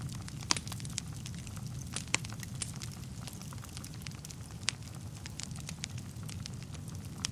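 Wood fire burning in a fireplace: a steady low rumble of flames under irregular crackles and pops, with a few sharper snaps, the loudest about half a second, two seconds and four and a half seconds in.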